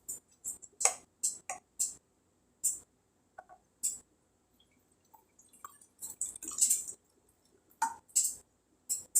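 Kitchenware clinking and clicking: a dozen or so short, sharp knocks and clinks at uneven intervals, a few with a brief ceramic or glassy ring.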